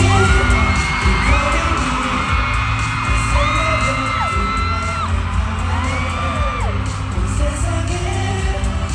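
Live pop music over an arena PA: a heavy steady bass line under singing voices holding long notes that slide downward as each ends.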